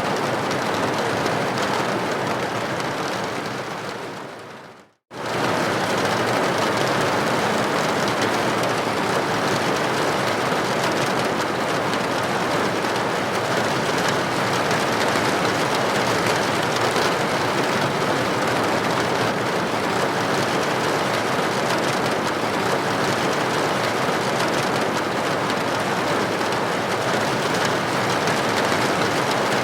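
Steady rain against a building window, an even hiss of droplets. About four seconds in it fades out to a moment of silence and comes straight back in at full level, as at the seam of a looped recording.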